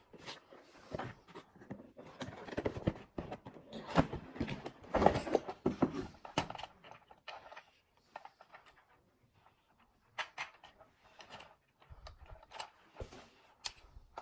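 Irregular clicks, knocks and rustling, busiest in the middle and sparse near the end, with no steady motor or rotor sound.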